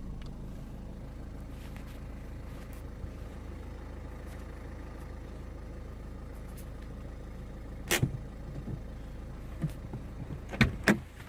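Steady low rumble of a car driving, heard from inside the cabin. About eight seconds in there is a sharp knock, and two more come close together near the end; these knocks are the loudest sounds.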